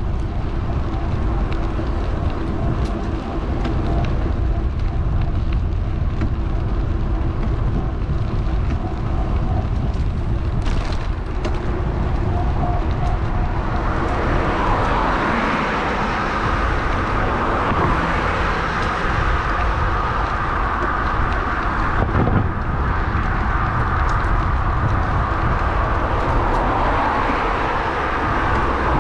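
Wind buffeting a GoPro microphone on a moving electric bike, a constant low rumble, with road traffic noise alongside. About halfway through a steadier hiss comes in over it.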